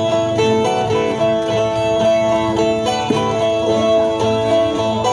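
Brazilian viola (ten-string viola of northeastern cantoria) playing an instrumental interlude of plucked, ringing notes between sung verses of a repente, with no voice.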